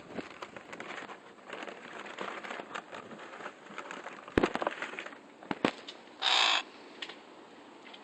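A crow gives one short, harsh caw about six seconds in. Before it come a few sharp knocks and a soft rustling.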